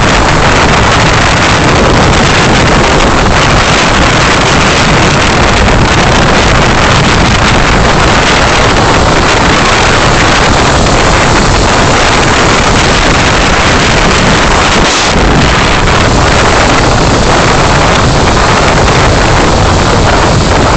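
Steady, loud road and engine noise of a moving car, as picked up by a dashcam's microphone, with a brief dip about 15 seconds in.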